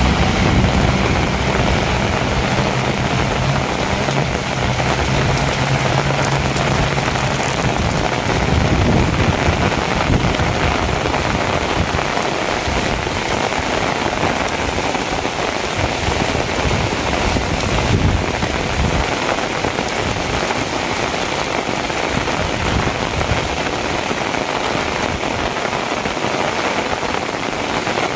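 Heavy rain falling steadily, a dense hiss of drops. For the first several seconds a motor vehicle's low engine hum runs under it, fading out about eight seconds in.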